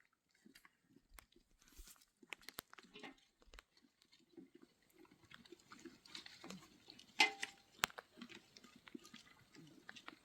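Faint chewing and crunching with scattered small clicks and one sharper knock about seven seconds in.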